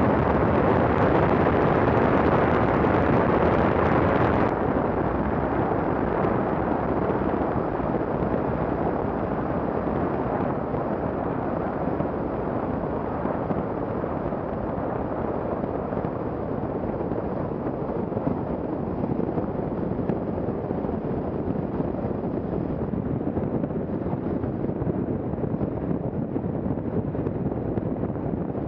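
Lycoming IO-375 engine and propeller of a Zenith STOL CH 750 Super Duty running steadily, heard from inside the cabin; the sound drops a little in level about four and a half seconds in.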